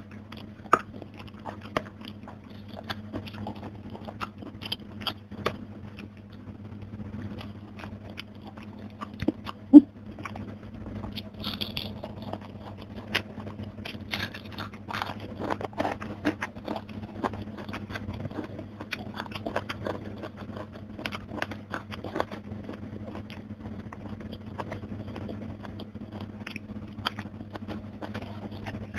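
Close-miked chewing and crunching of crispy fried fish, with many short crackles as it is bitten and eaten. There is one much louder sharp click about ten seconds in, and a steady low hum throughout.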